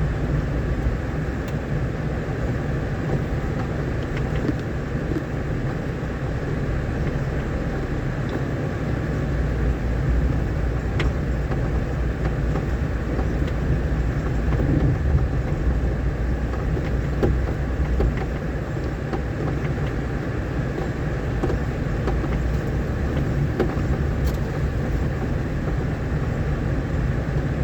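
A vehicle driving on a rough dirt road: a steady low rumble of engine and tyres, with a few faint knocks from the uneven surface.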